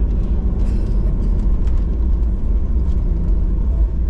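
Steady, loud rumble of an airliner's cabin as heard from inside: engine and airflow noise without a break.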